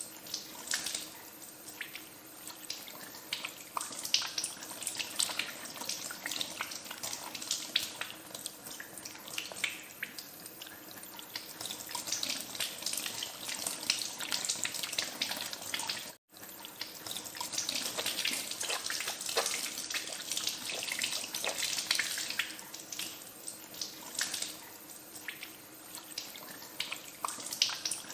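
Water running from a tap into a sink with uneven splashing as hands are washed under the stream. The sound drops out for an instant about halfway through.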